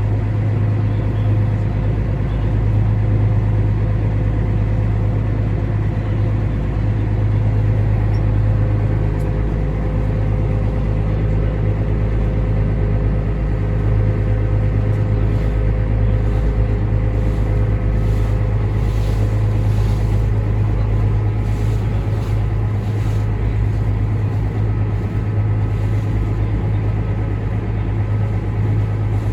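Small passenger ferry's engine running steadily under way: a loud, even deep hum with faint steady whining tones above it.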